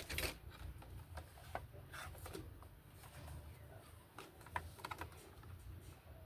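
Faint, irregular light clicks and taps, a few a second at most, over a low steady hum.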